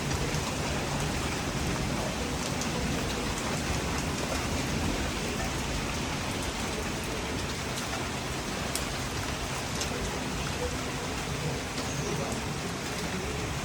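Steady rain falling during a thunderstorm, an even hiss with scattered individual drops ticking.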